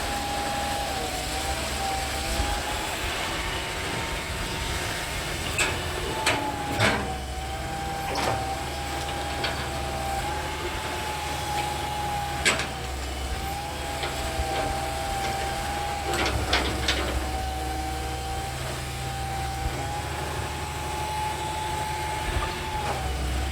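Hydraulic excavator running with a steady, slightly wavering whine over a low engine rumble. Sharp knocks come a handful of times, mostly near the middle of the stretch.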